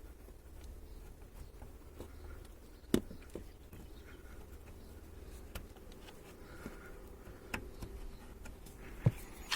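A wax candle rubbed along the metal door check strap of a SsangYong New Actyon to cure its squeak: faint scraping, with two sharp knocks, one about three seconds in and one near the end.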